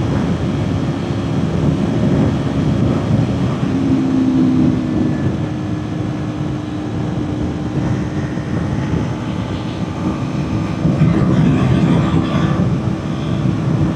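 Kawasaki Ninja 400's parallel-twin engine running steadily at high road speed, its note holding nearly level, under heavy wind rush on the microphone.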